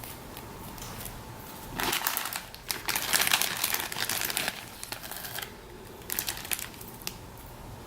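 Packaging crinkling as small kit parts are handled, in a run of crisp bursts for a few seconds and a few shorter crinkles near the end.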